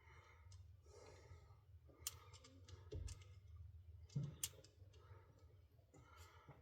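Faint, irregular clicks and small knocks of hand tools and metal parts being handled while tightening down a fitting, over a low steady hum.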